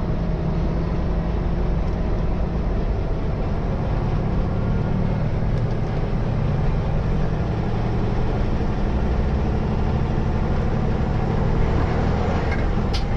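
A truck engine running steadily under way: a low drone that shifts in pitch a few seconds in. There is a single sharp click near the end.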